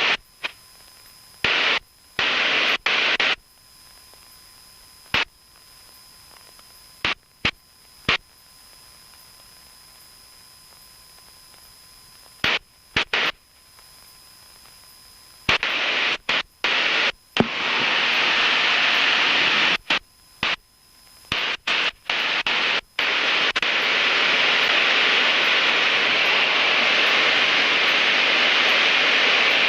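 VHF aviation radio static on an air traffic control frequency: repeated short bursts of hiss that switch on and off abruptly, as the squelch opens with no voice, then a steady loud hiss from about halfway through.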